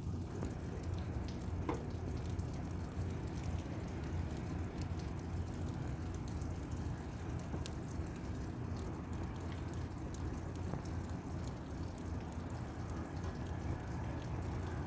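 Rain falling, with scattered sharp ticks of single drops striking nearby, over a steady low rumble.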